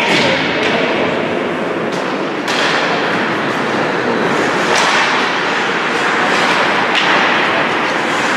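Ice hockey play on the rink: a steady scraping hiss of skates on the ice, broken by several sharp clacks of sticks and puck, the clearest about two and a half seconds in and again near five and seven seconds.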